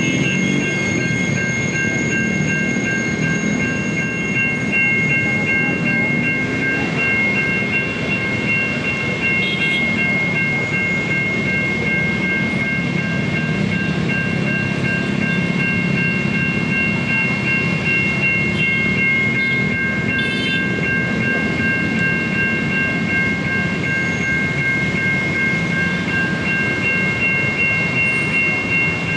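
Electronic level-crossing warning siren of the American type, sounding a steady multi-tone signal without a break, while a train passes over the crossing with a continuous low rumble.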